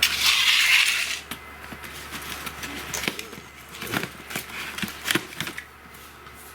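Fireworks packaging being handled: a rustle in the first second, then scattered light knocks and clicks as the small fireworks are picked up and set down on a hard surface.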